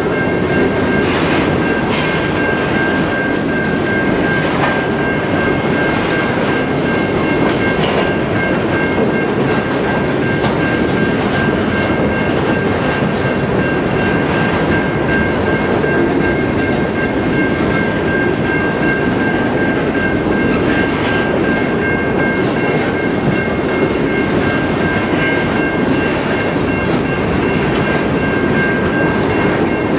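Covered grain hopper cars of a freight train rolling past, their steel wheels rumbling and clacking on the rails, with a steady high-pitched squeal over the rumble.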